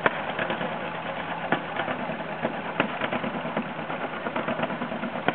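Farmall Super M tractor engine idling steadily, with a few sharp clicks heard over it.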